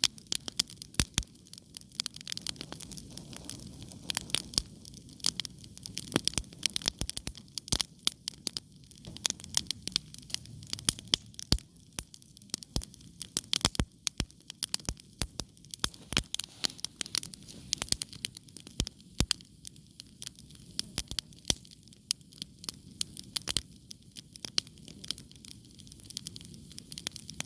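Wood fire burning, its logs crackling and popping in dense, irregular sharp snaps over a low steady rumble of flame.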